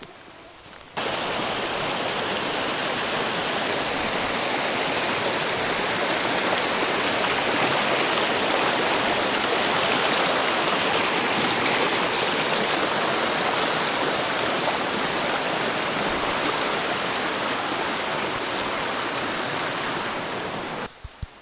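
Rushing water of a stream, a steady even hiss that starts abruptly about a second in and cuts off near the end.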